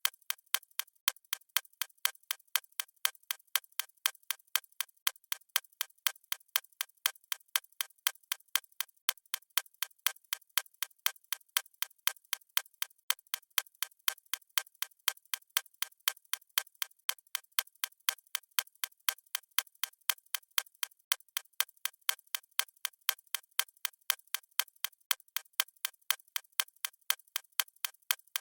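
Clock-ticking sound effect of a countdown timer: a steady, even run of light, sharp ticks with no low end.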